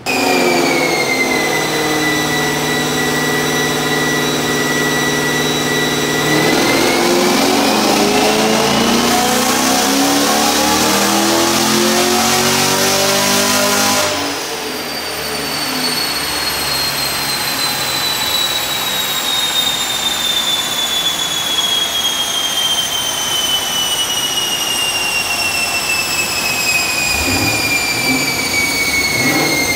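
Chevrolet Camaro with aftermarket headers run on a chassis dyno: the engine holds a steady pitch for about six seconds, then climbs in pitch through a full-throttle pull and cuts off sharply about fourteen seconds in. The dyno rollers and drivetrain then coast down with a high whine that falls slowly in pitch.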